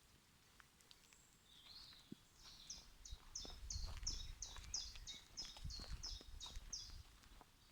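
A small songbird singing a quick run of about a dozen repeated high two-part notes, about two and a half a second, starting a couple of seconds in. A low rumble sits underneath.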